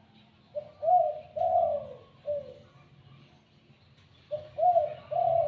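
Spotted dove cooing: two phrases of four notes each, a short note, two longer swelling coos and a short falling note, the second phrase starting about four seconds in.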